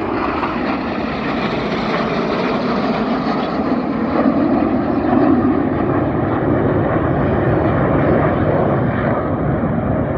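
Several BAE Hawk T1 jets flying past in formation, a continuous jet-engine noise that swells to its loudest around the middle and then grows duller as they move away.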